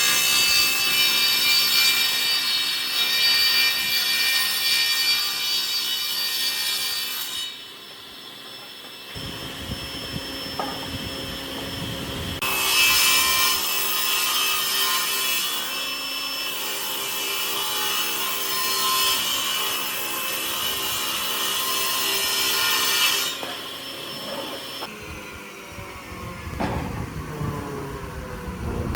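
Electric power tool running against wood, in two long stretches with quieter gaps about eight seconds in and again near the end.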